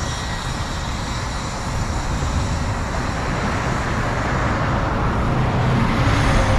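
Road traffic going by on a busy street, with a vehicle passing close and getting louder near the end.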